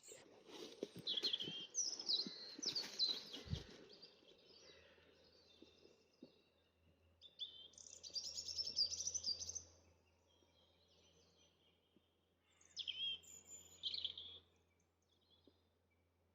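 Songbirds singing in woodland: three bursts of quick, high, warbling and trilling phrases, the first about a second in, another around eight seconds in and the last near thirteen seconds, over a faint steady low hum.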